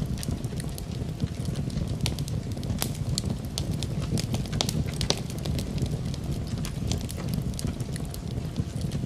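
Wood fire in a fireplace crackling, with frequent irregular sharp pops over a steady low rumble of flame.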